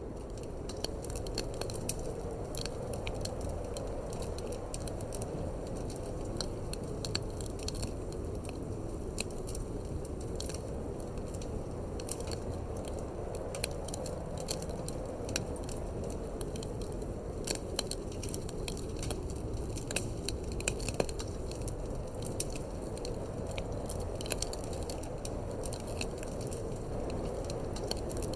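Wood fire crackling in a fireplace, with irregular sharp pops and snaps, over a steady low rush of wind.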